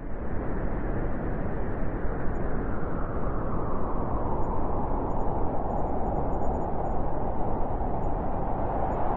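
Blizzard wind blowing steadily, a dense rushing noise with a howl that grows stronger in the second half.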